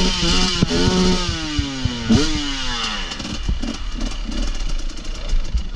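Off-road motorcycle engine revved hard in throttle blips, its pitch rising and falling. After about three seconds it drops back to a rough, lower run with clatter and knocks.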